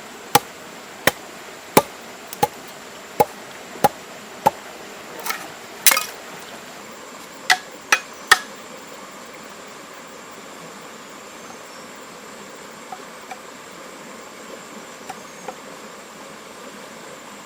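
Sharp hammer blows, about one every 0.7 seconds for the first four seconds or so, then a few more uneven strikes until about eight seconds in, after which only faint taps are left.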